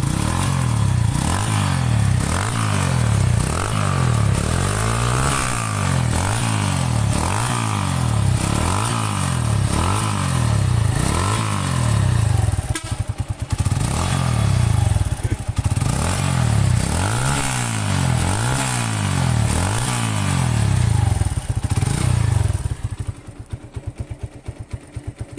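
2005 Honda Megapro's single-cylinder four-stroke engine, heard through its original stock exhaust, blipped repeatedly at about one rev a second. There is a brief pause about halfway through, and it settles back to idle near the end.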